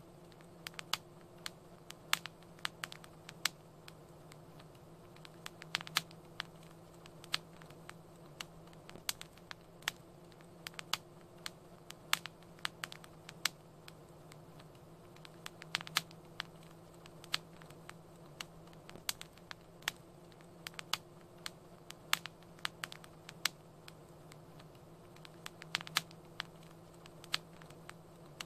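Wood fire crackling in a fireplace: irregular sharp pops and snaps, about two a second, over a low steady hum.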